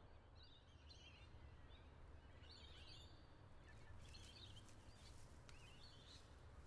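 Faint songbird chirps, a short call about every second, over a low steady outdoor rumble.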